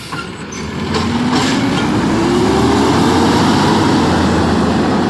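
Garbage truck engine revving up, its pitch rising steadily over a couple of seconds under a loud rushing noise, as the truck works its hydraulics to pick up a garbage can.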